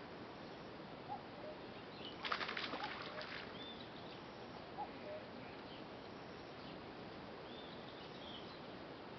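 Birds chirping now and then over a steady outdoor hiss, with a short rattle of rapid clicks lasting about a second, around two seconds in.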